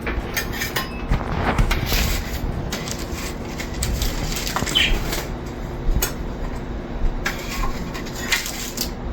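Kitchen handling sounds: irregular rustling and scraping with a few light knocks, as freshly baked manakish are lifted off a paper-lined baking tray and set on a plate. A faint steady hum runs underneath.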